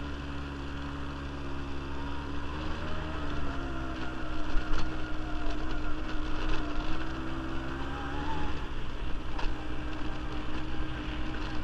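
Quad bike (ATV) engine running under way, its pitch climbing a few seconds in and dropping back near the end, with a few sharp knocks.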